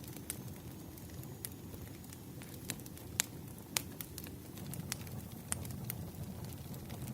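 Wood fire crackling: sharp, irregular pops over a low steady rumble.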